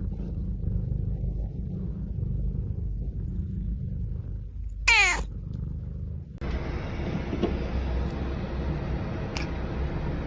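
A cat meows once, a short call that falls steeply in pitch, about five seconds in, over a steady low rumble. About a second later the sound cuts to an even hiss with a couple of faint clicks.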